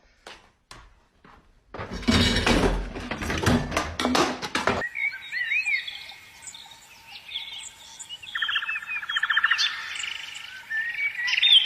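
A few seconds of loud knocking and clattering, then small birds chirping and twittering, with a fast buzzy trill about eight and a half seconds in.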